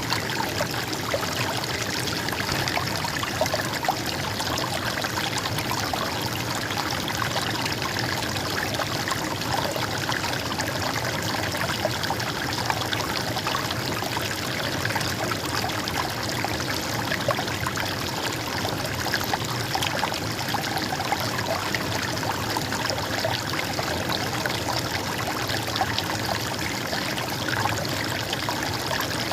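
Stream water flowing and trickling steadily, a constant burble with small splashes.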